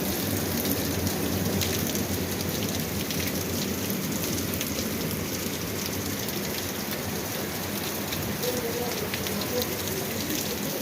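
Heavy rain falling steadily, with many individual drops ticking sharply on a surface close by.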